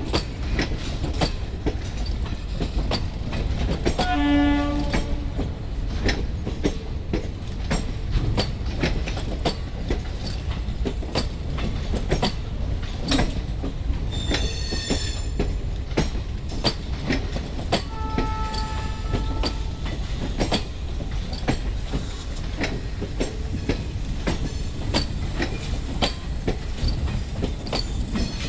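Train running on the track, a steady rumble with rapid clicks of the wheels over the rail joints. A short horn blast sounds about four seconds in, and brief high-pitched squeals come about halfway through.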